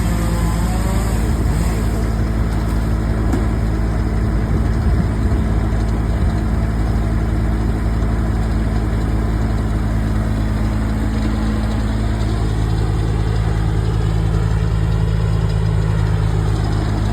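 A heavy machine's engine idling steadily, a low even hum with no revving.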